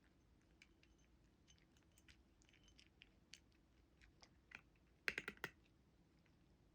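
A cat crunching crunchy food: faint, scattered crisp crunches, with a louder quick run of several crunches about five seconds in.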